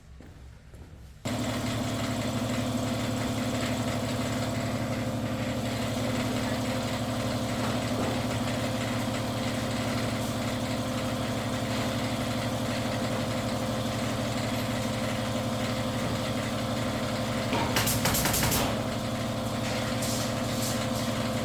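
A machine starts humming abruptly about a second in and runs on steadily, with a few short hissing bursts near the end.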